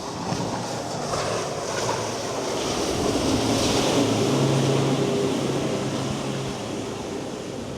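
A motorboat's engine hums as the boat passes, growing louder toward the middle and easing off. It runs over the wash of choppy water, with wind on the microphone.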